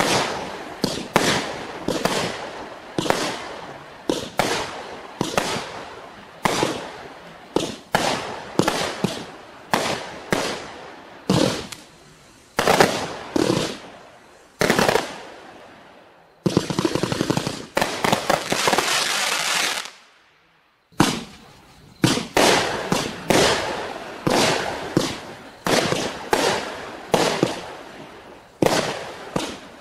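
Klasek Profi fireworks battery firing a rapid string of shots, about one to two a second, each followed by a crackling tail as the effects burst. Past the middle comes a few seconds of continuous crackle that cuts off into a moment of silence, then the shots resume.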